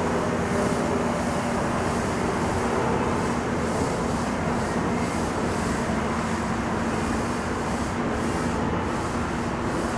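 MARC commuter train's bilevel coaches rolling slowly past and slowing to a stop at the platform: a steady rumble with a constant low hum, over the hiss of rain.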